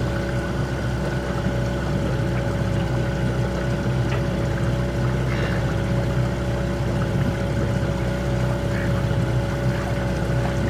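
Small outboard motor of a trailer sailer running at a steady speed, an unchanging engine drone.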